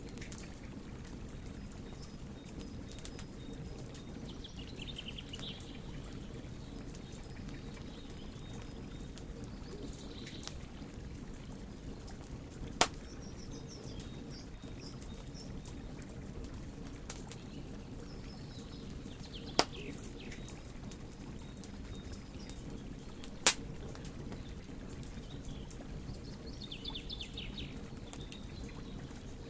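Wood fire burning with a low steady rumble and small crackles, and three loud sharp pops about 13, 20 and 23 seconds in. Birds chirp now and then in the background.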